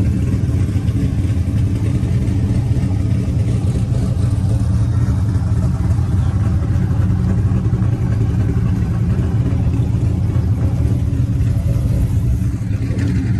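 V8 truck engine idling steadily. The engine is low on coolant and running hot.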